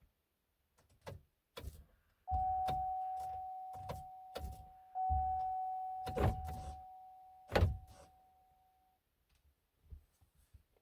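An electronic chime from a 2004 Cadillac Escalade ESV sounds a steady single tone that slowly fades, is struck again about halfway through and dies away, among scattered plastic clicks of key and fob handling.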